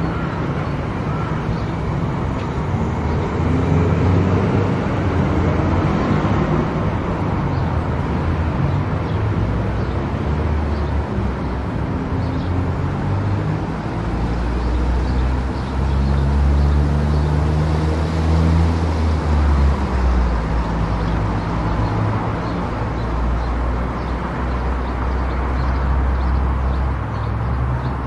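Car driving at highway speed: steady road and tyre noise with a low engine drone that shifts in pitch partway through.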